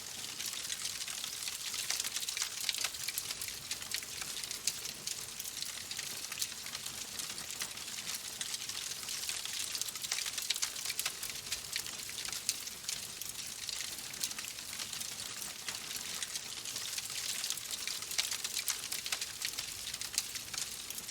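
Wood fire in a fireplace crackling: a steady hiss thick with many small, quick pops and snaps.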